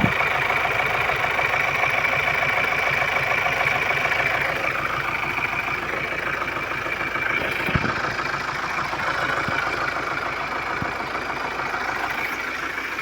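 Ford's turbocharged engine idling steadily, with a steady high whine over the running sound and a couple of brief knocks, one at the start and one about two-thirds of the way through.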